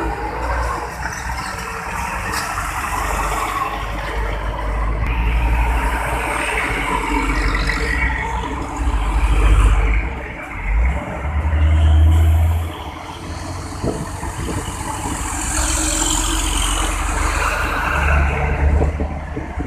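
Heavy trucks and other traffic passing through a road junction: diesel engines rumbling continuously, with louder pass-bys about halfway through and a short hiss near the end.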